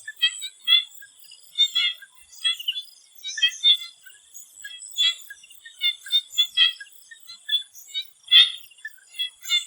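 Chorus of swamp frogs calling in short, sharp notes, several a second and overlapping, over a steady high-pitched insect drone.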